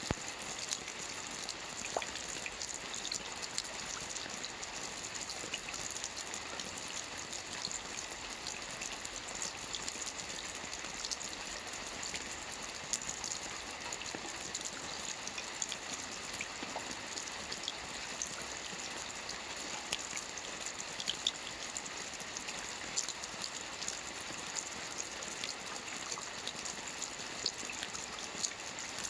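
Steady soft rain pattering on a roof, with many separate drops ticking over the hiss.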